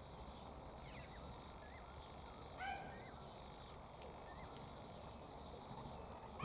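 Birds calling outdoors: a short, harsh, pitched call about two and a half seconds in and another right at the end, with faint short rising chirps and high ticks in between.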